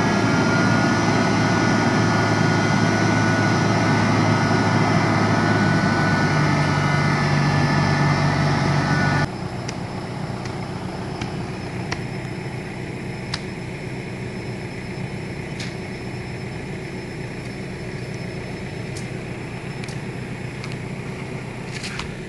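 Toyota Land Cruiser's diesel engine running steadily with a whine on top. About nine seconds in the sound drops abruptly to a quieter steady hum with a few faint sharp clicks.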